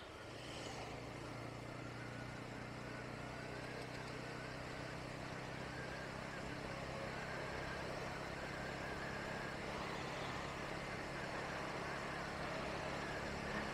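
Bajaj Pulsar N160's single-cylinder engine running steadily under way, a low even hum over a constant rush of noise, slowly growing a little louder.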